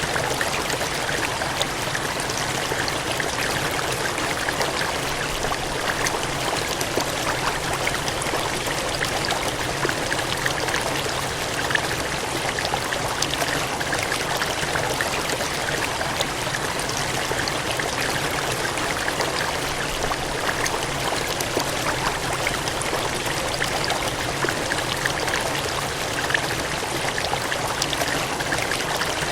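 Water gushing and cascading steadily, a continuous rushing splash with fine spattering and no pauses.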